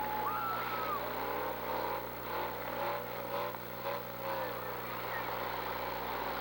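Demolition derby cars running, with two held horn-like tones in the first second, one of them dropping away as it ends, and voices in the middle.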